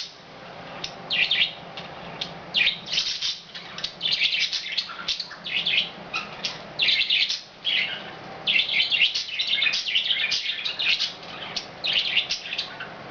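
Budgerigars chirping and chattering in quick, continuous bursts of short high chirps.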